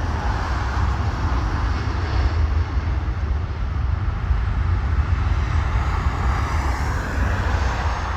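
Jet engine noise of a departing Boeing 737-8200 MAX, its CFM LEAP-1B turbofans at take-off power. It is a steady deep rumble under a broad hiss that slowly shifts in pitch as the aircraft moves past.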